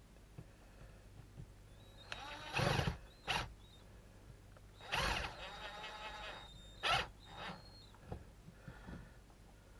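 A few short bursts of clatter and rattling, with smaller ticks between: small parts and tools being handled during work on an RC truck chassis.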